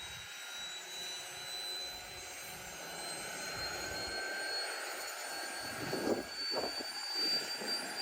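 Helicopter's turbine engine spooling up before take-off, a high whine that slowly rises in pitch, with a few uneven low rumbles in the second half.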